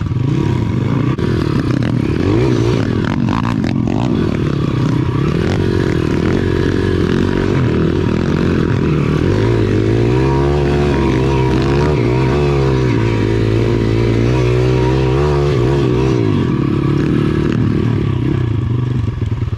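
Small single-cylinder pit bike engine running hard, its pitch rising and falling as the throttle is worked through a tough, rough trail section.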